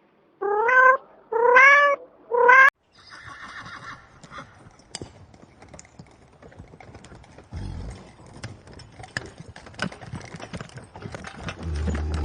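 A domestic cat meows three times in quick succession, each call sliding up and back down. Then horse sounds follow: a short breathy call and many scattered hoof clops and knocks, with some low rumbles.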